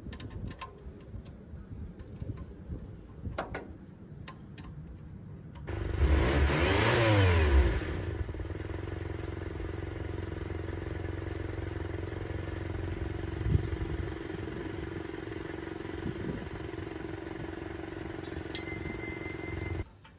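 A few clicks, then the 1991 Subaru Sambar truck's 660 cc four-cylinder engine starts about six seconds in, revs briefly and settles into a steady idle. A short high tone sounds near the end.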